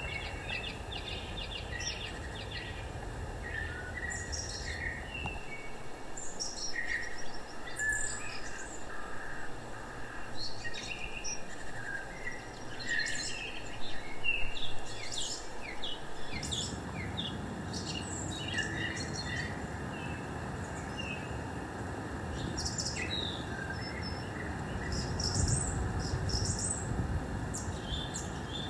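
Songbirds chirping and calling, many short overlapping chirps throughout, over a steady low outdoor rumble.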